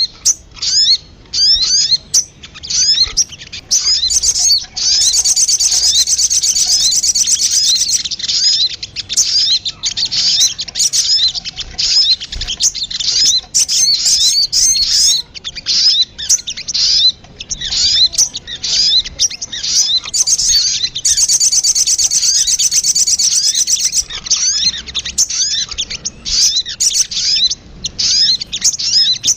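Sogon (sogok ontong), the little spiderhunter, calling: a long run of high, quick, downward-slurred chirps, broken twice by a fast trill lasting about three seconds.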